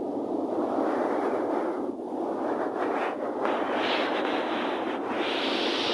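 Sea surf washing onto a rocky shore: a steady rushing noise that swells about half a second in and again near the end, with a few short scrapes or knocks around the middle.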